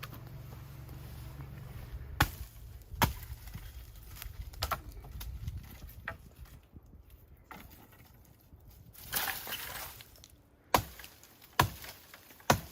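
Branches being chopped: sharp wooden strikes, a few scattered at first, then a steady run of about one a second near the end, with a brief rustling crunch between them. A low rumble fades out about two seconds in.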